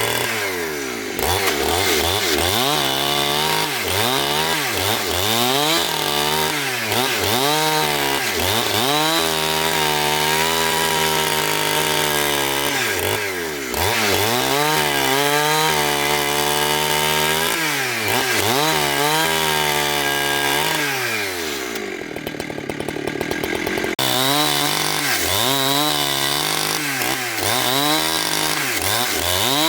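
Petrol-engined saw cutting a log into boards. Its engine pitch rises and falls again and again as it is throttled up and loaded in the cut. About 22 seconds in it drops briefly to a lower, rougher note, then revs up again.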